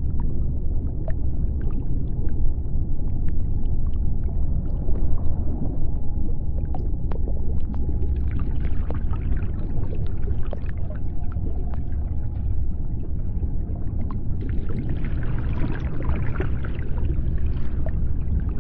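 Deep, steady underwater rumble with scattered clicks and crackles, and a stretch of hissing about eight seconds in and again about fourteen seconds in.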